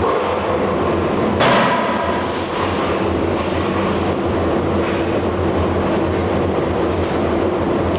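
Forge-shop machinery running with a steady hum and rumble, and one sharp strike about a second and a half in, typical of a blow from a closed-die forging hammer.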